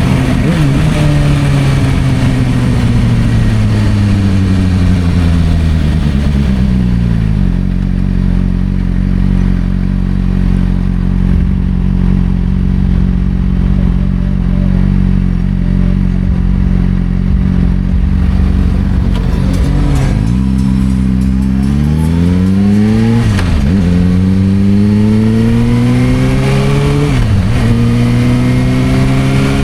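Suzuki GSR600's inline-four engine through a Dominator aftermarket exhaust: the revs fall away and settle at a steady low speed, then about twenty seconds in they climb again, dropping briefly at two upshifts and rising after each.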